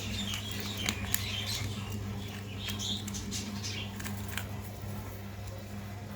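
Baby parrot making high, scratchy squeaks through the first three seconds or so, with scattered small clicks and pattering throughout, over a steady low hum.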